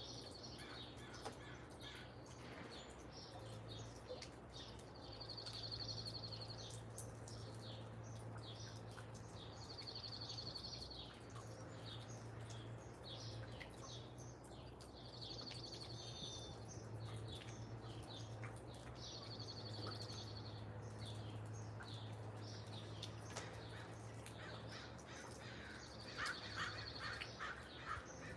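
Backyard wild birds calling and chirping, one of them repeating a short high trill every four or five seconds. Crows caw near the end over a steady low hum.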